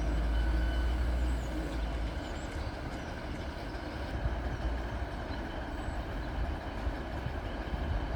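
Northern Railway Class 156 Super Sprinter diesel multiple unit running at the station, a steady low diesel rumble that is loudest for the first couple of seconds and then eases a little.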